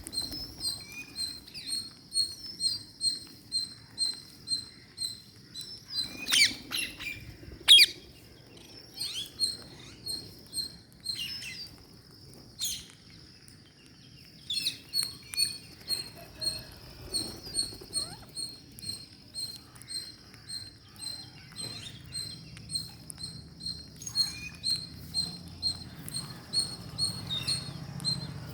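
Ring-necked parakeets calling: a long run of short, high, evenly spaced peeps, broken by a few loud shrill squawks about six to eight seconds in and again near the middle.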